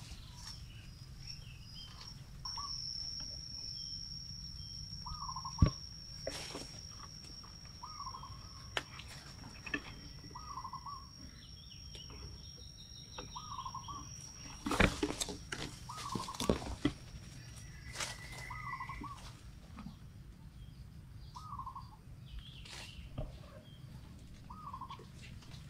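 Forest ambience: a bird calls one short note over and over, about every second and a half, over a thin steady high-pitched whine that stops near the end. A few sharp crackles and rustles of dry leaves and twigs, the loudest a cluster about two-thirds of the way through, come from macaques moving over the leaf litter and branches.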